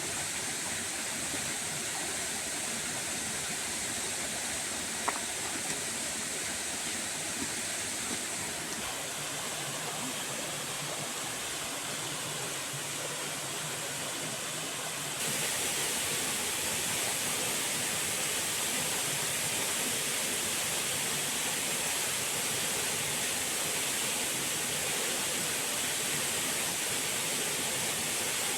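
Steady rush of falling water with no pauses, getting suddenly louder about halfway through.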